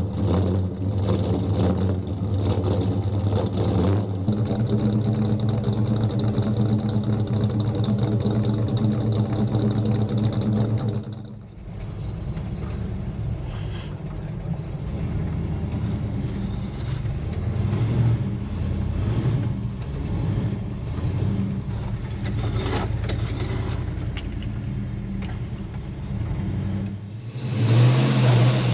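A 1972 Dodge Demon's 340 V8 running steadily while it warms up from cold, an engine that does not like to idle when cold. About eleven seconds in the sound drops abruptly to a lower, rougher engine note, and near the end it comes back loud.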